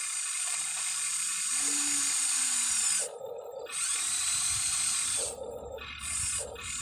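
Electric motors and gearboxes of a Huina 1593 radio-controlled model excavator whining as its functions are worked. The whine stops and starts several times, cutting out about three seconds in and again near five seconds.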